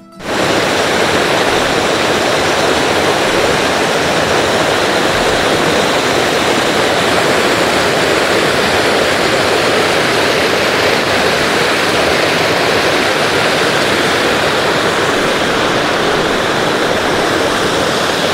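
Waterfall cascading into its pool, a loud, steady, continuous rush of falling water that cuts in abruptly right at the start.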